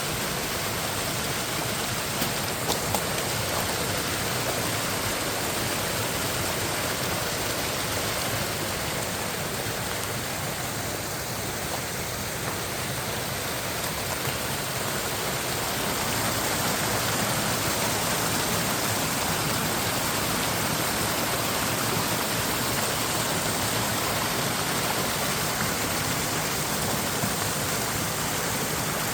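Mountain stream cascading over rocks: a steady, even rush of water, with a few faint clicks about two to three seconds in.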